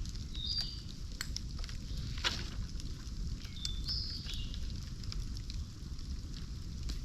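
Campfire burning with a steady low rumble and scattered crackles, one sharper pop a little over two seconds in.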